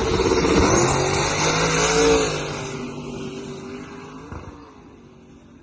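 A drag-racing vehicle's engine at full throttle. It comes in suddenly, is loudest about two seconds in, then fades away over the next few seconds as it runs off.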